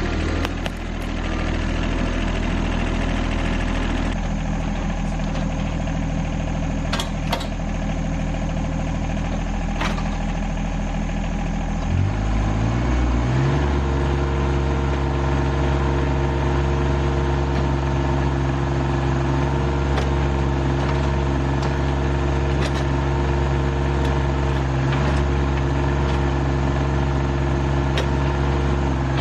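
Rural King RK25 sub-compact tractor engine running steadily, then throttled up about twelve seconds in and held at a higher, even speed. A few light clanks come early on.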